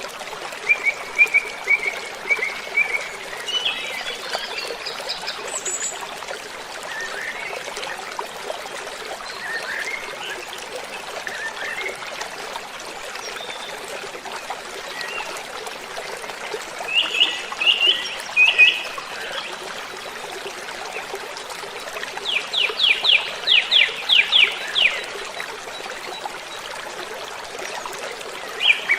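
Waterfall rushing steadily, with birds calling over it: short chirping phrases, a few brighter notes about midway, and a rapid trill of evenly spaced notes late on.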